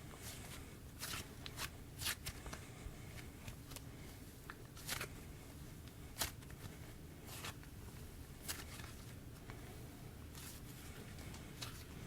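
Hands squishing and stretching a soft clay slime with sprinkles mixed in, making faint scattered crackles and small clicks.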